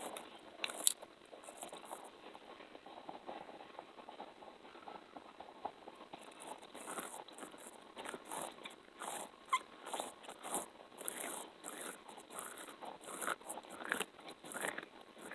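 Close-miked ASMR sticky and tapping sounds: an irregular run of short clicks and crackles, sparse at first and coming thick and fast in the second half.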